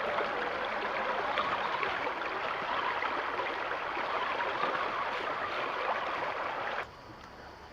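Running water of a shallow stream, a steady rushing, crackling haze that cuts off abruptly near the end, leaving a faint hiss.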